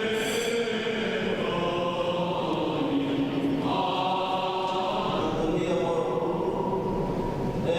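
Choir chanting in long held notes, moving to a higher phrase about three and a half seconds in.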